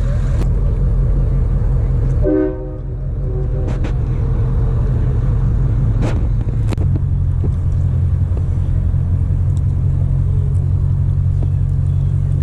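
Steady low rumble of a running vehicle engine, with a short horn-like tone about two seconds in and a few clicks.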